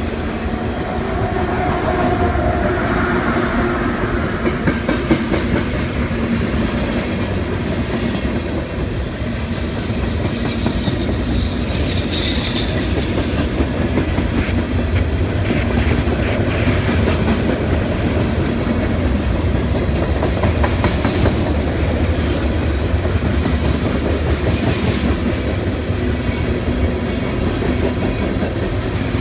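CSX freight train rolling past, with a steady rumble and clickety-clack of wheels over the rail joints.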